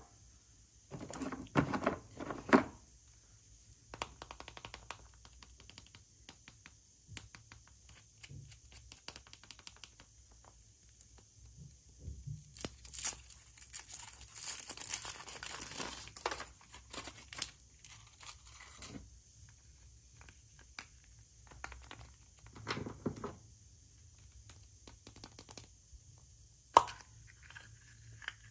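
Packaging being torn open and crinkled by hand, with scattered clicks and knocks of handling, and a longer stretch of tearing and crinkling about midway.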